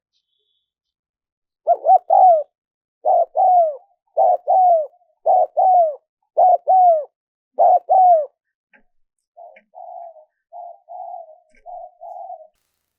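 Spotted dove cooing: six loud two-note coos about a second apart, each note arching down in pitch. Near the end comes a softer run of short, rough coos.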